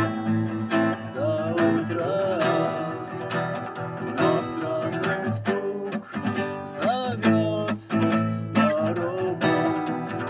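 Music: strummed acoustic guitar, with a melody line that slides up and down in pitch.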